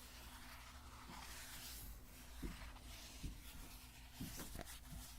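A bottle being scratched: soft, repeated scratching strokes, with a few faint light taps in the second half.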